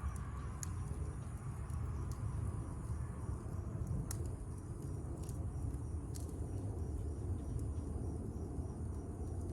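Campfire burning: a steady low rumble with scattered sharp crackles every second or so, over a faint high drone of insects.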